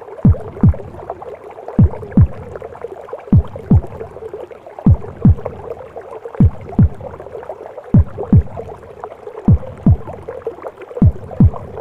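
Mother's heartbeat as heard from inside the womb: a slow, deep double thump (lub-dub) about every second and a half, eight beats in all, over a steady muffled whooshing womb noise.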